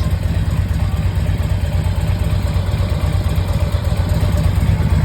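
A 2006 Harley-Davidson Ultra Classic Electra Glide's V-twin engine idling steadily, a low, even rumble.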